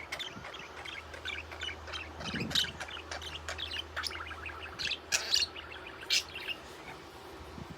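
Budgerigar chirping in quick, irregular runs of short high chirps, a few of them much louder than the rest.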